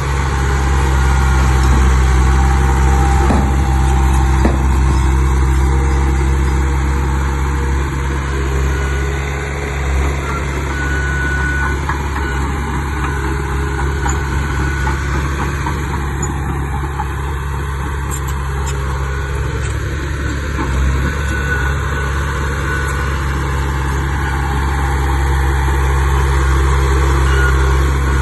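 Heavy diesel engine of earthmoving equipment running steadily with a deep, even drone, with a couple of faint clanks about three and four and a half seconds in.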